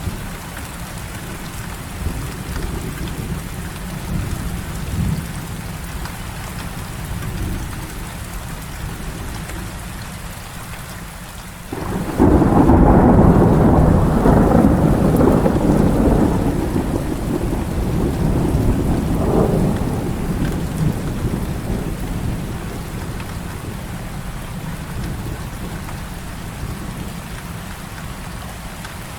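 Steady heavy rain with low rumbling thunder. About twelve seconds in, a loud thunderclap breaks out suddenly and rolls on for several seconds, swelling again briefly before it dies away into the rain.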